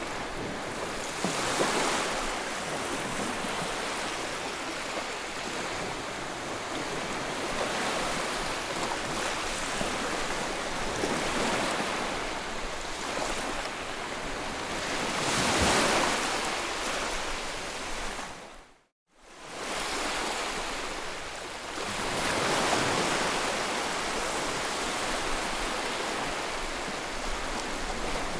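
Ocean waves washing ashore, a steady surf hiss that swells and eases every few seconds. About two-thirds of the way through, the sound briefly drops to silence and fades back in.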